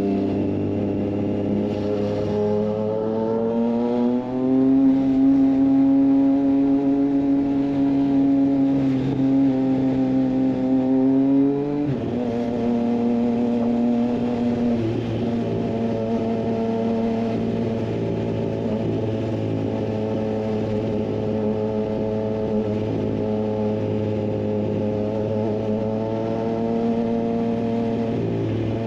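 Triumph Street Triple 765 RS inline-three engine through a Racefit Growler full exhaust, running under way at steady cruising revs. The pitch climbs about four seconds in, drops suddenly near twelve seconds, then holds steady.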